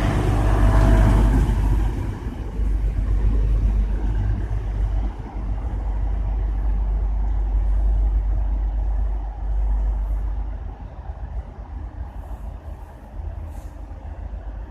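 Class 185 diesel multiple unit running at the platform, a loud, deep engine rumble that drops away after about ten seconds.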